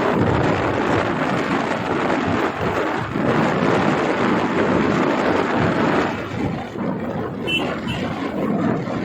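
Wind rushing and buffeting over the microphone on a moving motorbike, as a dense rumbling roar that eases a little about six seconds in.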